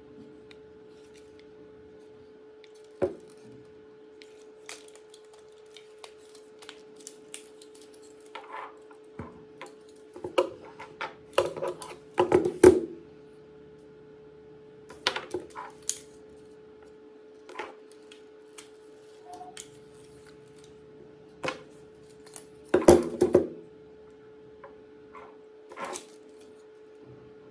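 Hard plastic parts of a Tomica toy aircraft clicking and clattering as they are handled and fitted together, in scattered single clicks and short clusters, loudest about midway and again near 23 seconds in. A faint steady hum lies underneath.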